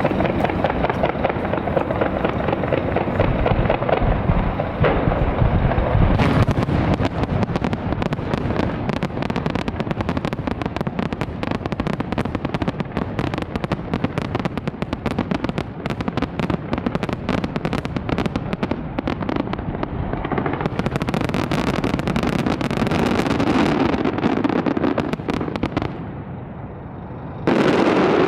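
Large fireworks display: many charges going off in a continuous, dense crackle. It eases off briefly near the end, then a sudden loud burst breaks in.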